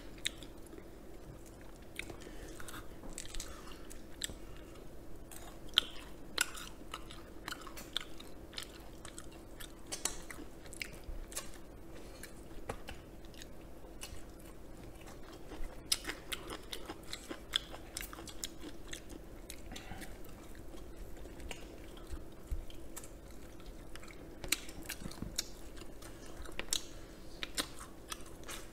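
Close-miked chewing and biting of sauced fried chicken with shredded green onion, with many small irregular clicks and wet mouth sounds.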